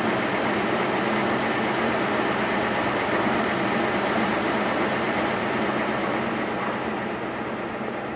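Vehicle engine idling steadily: a low hum under a constant hiss, easing a little near the end.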